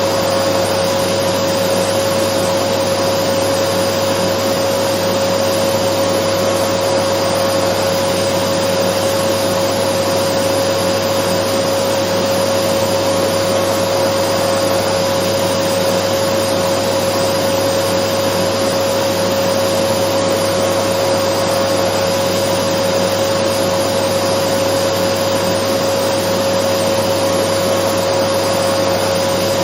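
Dyson vacuum cleaner running steadily: an even rush of airflow with a constant motor whine at one pitch, loud and unchanging.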